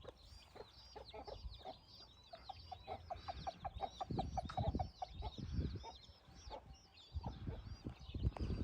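Birds calling: a stream of quick high chirps, with a fast run of lower repeated clucking notes in the middle. Low thuds come about halfway through and again near the end.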